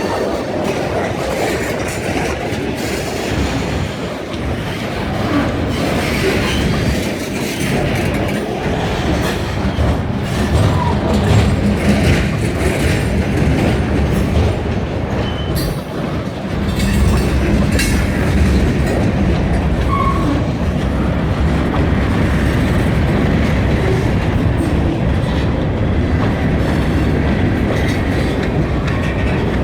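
Freight train rolling past, its railcars clattering and clacking over the rail joints in a steady rumble. The deep rumble grows louder a little past halfway.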